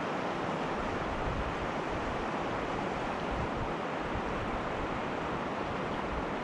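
Mountain river current rushing steadily, an even wash of flowing water.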